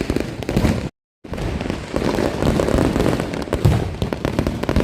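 Fireworks and firecrackers going off all around: a dense, continuous crackle of many pops and bangs. The audio cuts out completely for a moment about a second in.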